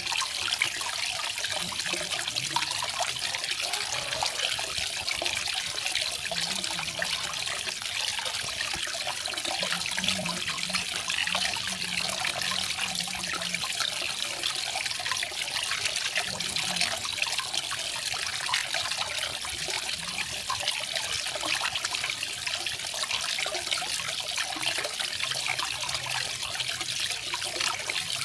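Small garden waterfall: water splashing and trickling steadily.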